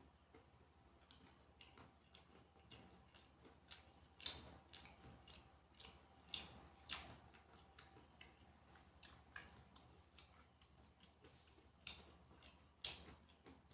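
A person chewing food, heard faintly as irregular soft clicks and crunches. The sharpest crunches come about four, seven and thirteen seconds in.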